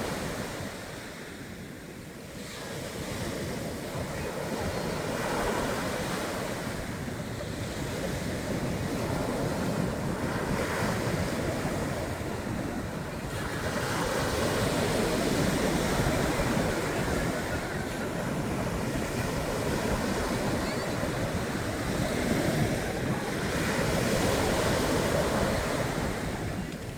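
Surf washing onto a beach, the waves swelling and falling back every few seconds, with wind buffeting the microphone.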